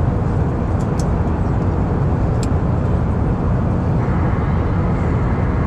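Steady low rumble of engine and airflow noise inside the cabin of an Airbus A319 descending toward landing, with a couple of faint clicks.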